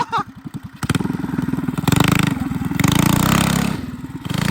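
Mini bike's small single-cylinder engine opened up hard about a second in, revving high and held at full throttle, then easing off near the end.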